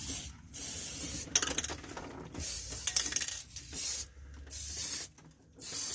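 Aerosol can of anti-rust coating sprayed in a series of short hissing bursts, about six in all, each stopping and starting again within a second or so.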